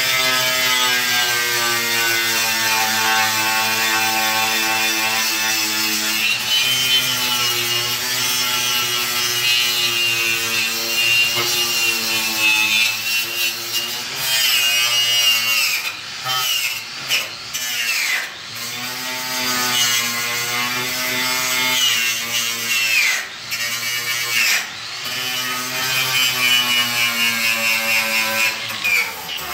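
Power tool spinning a wire wheel against welded steel sheet metal, cleaning it down to bare metal. The motor's pitch sags several times as the wheel is pressed into the work and recovers when it is eased off, then winds down at the end.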